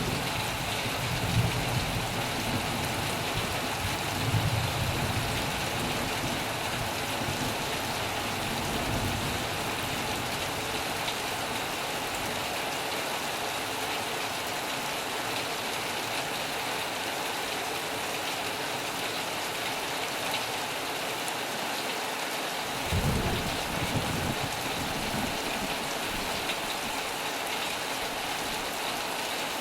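Heavy rain falling steadily on a metal roof, with low rumbles of thunder in the first few seconds and again about three-quarters of the way through.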